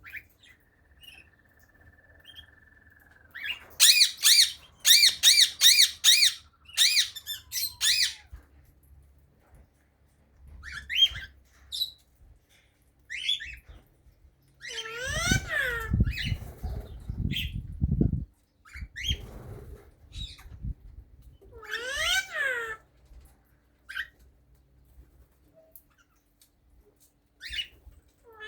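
Cockatiel whistling its song, the singing typical of a male: one long steady whistle, then a loud fast run of repeated rising-and-falling notes, followed by scattered short chirps and further warbled phrases. Low thumps sound under the song in the middle.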